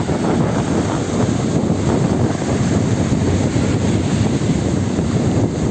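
Strong wind blowing across the microphone, a steady low rumble, over the wash of sea waves.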